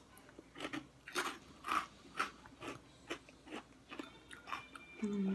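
Close-up chewing of a mouthful of salad with lettuce and croutons: soft, wet crunches repeating about twice a second.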